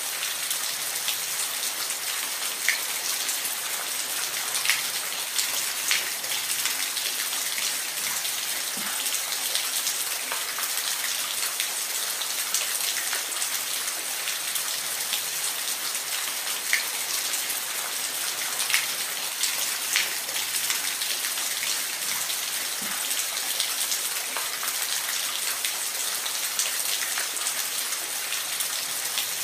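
Steady hiss of falling water, bright rather than deep, with scattered sharp drop-like ticks every second or two.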